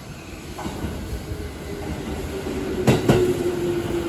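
JR Central electric train pulling into the station platform, growing louder. About three seconds in, its wheels clack twice over a rail joint, over a steady whine.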